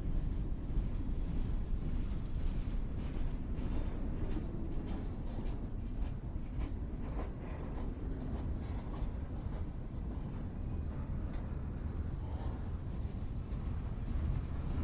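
Railroad train rolling by with a steady low rumble and scattered irregular clicks and knocks from the wheels and cars.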